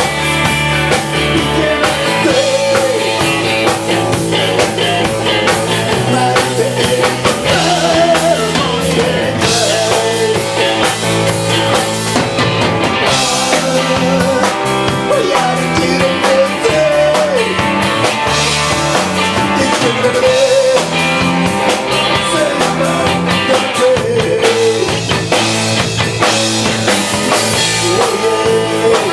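Live rock band playing: electric guitar, bass and drum kit, with a lead line bending and wavering in pitch over the steady beat.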